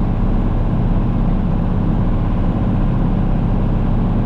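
Engine of a snow-clearing machine running steadily at an even speed, with a deep hum and no changes in pace.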